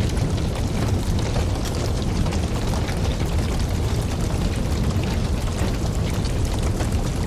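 Campfire burning steadily: a low rushing of flames with frequent small crackles and pops.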